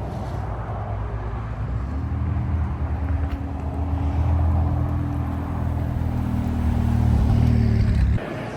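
Car engine and exhaust running with a low, steady rumble that grows louder, then cuts off suddenly near the end.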